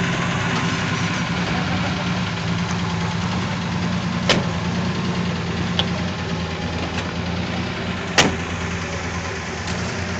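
Holden Torana's engine idling steadily just after starting. There are two sharp clicks, about four and eight seconds in.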